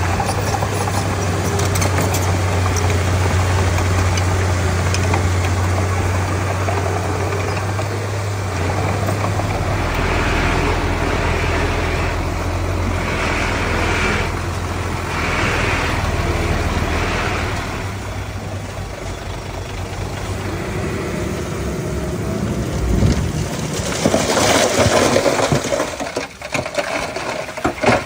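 Heavy diesel engines of earthmoving machines running, a bulldozer and dump trucks, with a steady low drone that drops lower in pitch about a third of the way in. A louder noisy stretch near the end.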